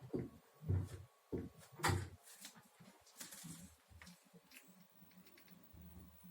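LG washing machine spinning, its drum knocking in a rhythm about every 0.6 s: four strong knocks in the first two seconds, then weaker knocks over a low rumble.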